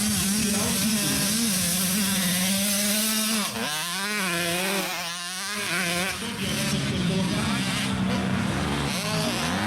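85cc two-stroke motocross bikes racing, engines revving up and down. The pitch drops off between about three and a half and six seconds in, then picks up again.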